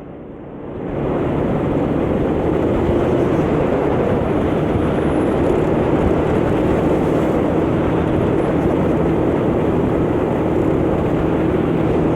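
A 125cc motor scooter's engine running while riding, with wind noise over the microphone. It grows louder about a second in, then holds steady.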